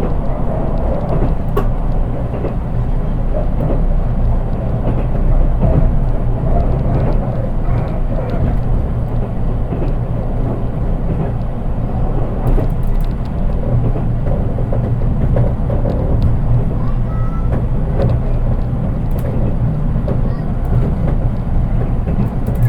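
Interior running sound of a JR East 183 series DC express electric train, heard from the motorless KuHa 183 driving trailer: a steady low rumble of wheels on rail, with a few faint clicks. With no motors under this car, there is hardly any traction-motor whine.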